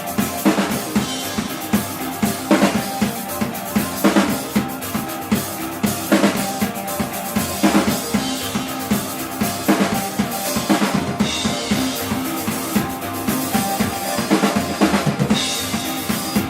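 Live band playing loud, with the drum kit to the fore: steady bass drum and snare hits under sustained instruments.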